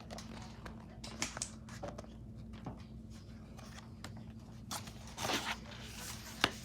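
A paperback picture book being handled and turned around, with paper rustling, soft taps and a swish of pages, over a steady low room hum.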